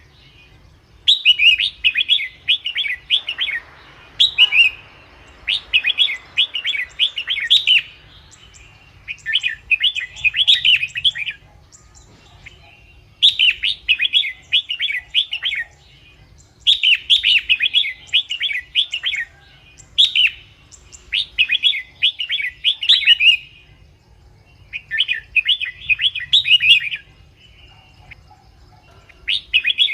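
Red-whiskered bulbul singing: a run of quick, bright chirping phrases, each two to three seconds long, repeated about nine times with short pauses between them.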